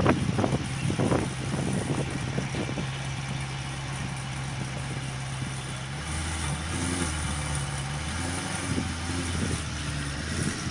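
Kleemann-supercharged 6.2-litre V8 of a Brabus-tuned Mercedes SLS AMG, blipped sharply a few times at the start, then settling into a steady idle. About six seconds in the note drops to a deeper, uneven idle.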